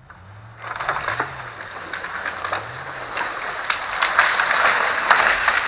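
A tree being dragged down by a pickup truck crashing through the branches of neighbouring trees: a rush of rustling leaves with many sharp cracks and snaps of breaking branches, building over a few seconds and easing off near the end, over the faint low hum of the truck's engine.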